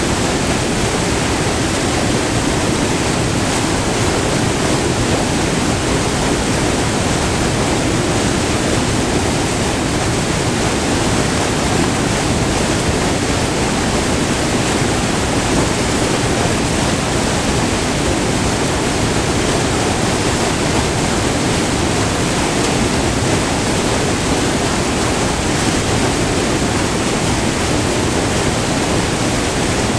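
White water of a short, multi-tiered river waterfall pouring and rushing up close, a steady full rush without a break.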